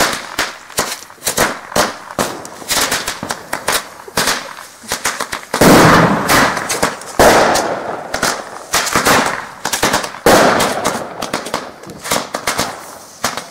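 Fireworks going off: a rapid, irregular run of sharp cracks, with three much louder bangs about five and a half, seven and ten seconds in, each trailing off in crackling.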